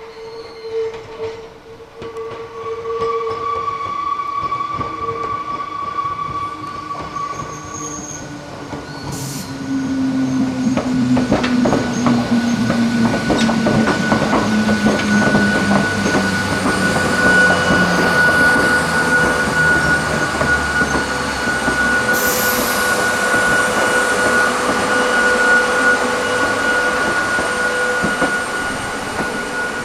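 Hakone Tozan Railway electric train running past. Its wheels squeal on the curve in a long, steady, high squeal that sets in about ten seconds in, under a lower whine that falls slowly in pitch, with scattered clicks from the wheels on the rail.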